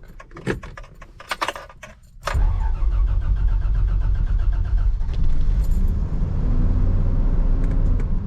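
Toyota FJ Land Cruiser's inline-six petrol engine being started cold on the choke: a couple of seconds of quiet clicks and key rattles, then the engine catches about two seconds in and settles into a steady idle.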